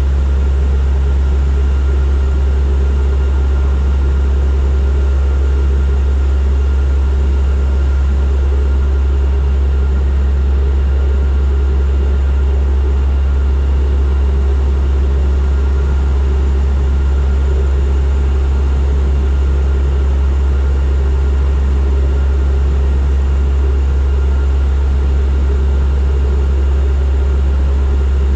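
Turboprop aircraft in flight: the propellers and engines make a loud, steady, deep drone, with a faint steady high tone above it that does not change.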